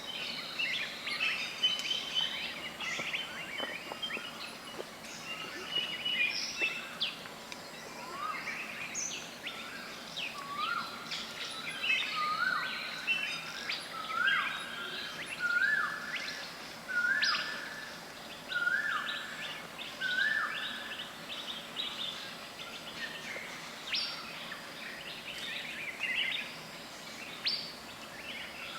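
Wild birds singing and calling, a busy mix of short high chirps and trills. Through the middle one bird repeats a rising whistled note about nine times, roughly every one and a half seconds, each a little higher than the one before until the notes level off.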